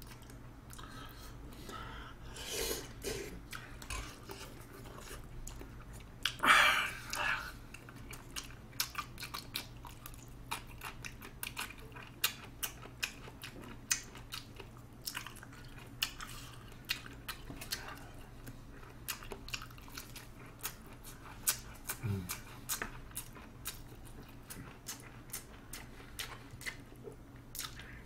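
Close-miked mukbang eating: wet chewing and lip-smacking clicks, many small ones in quick succession. Louder slurps come as spoonfuls of yukgaejang noodles and soup go in, the loudest about six and a half seconds in.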